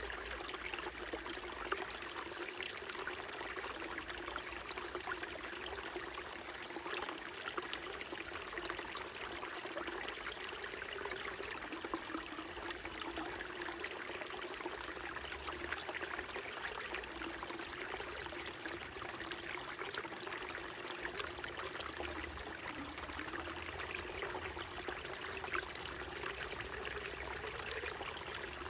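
Small mountain stream flowing and trickling over rocks, a steady burbling with many small splashes and a slightly wavering gurgle.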